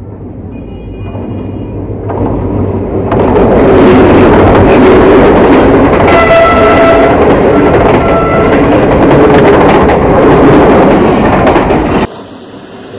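Pakistan Railways passenger train approaching and running past right beside the track-level microphone, growing louder over the first few seconds into a loud steady rumble. The locomotive horn sounds for about a second some six seconds in, then gives a shorter blast near eight seconds. The sound cuts off suddenly near the end.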